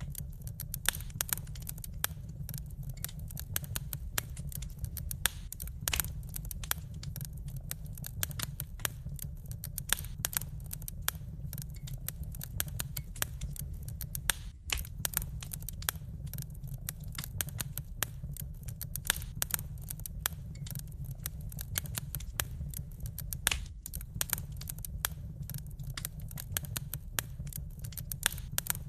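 Wood fire crackling: dense, irregular pops and snaps over a steady low rumble. The crackle drops out for an instant twice, about halfway through and again about two-thirds of the way through.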